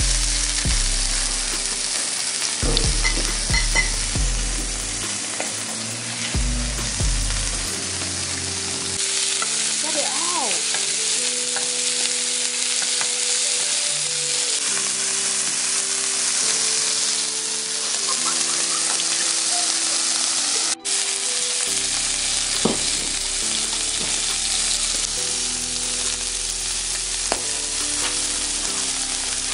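Food frying in a pan: a steady crackling sizzle.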